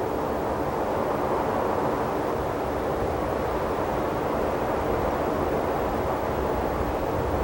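Steady outdoor ambience of open desert: an even, low rushing noise with no distinct events.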